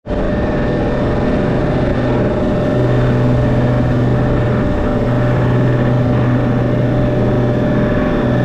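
Motorboat engine running at a steady pitch, with a constant hum over a haze of engine and water noise.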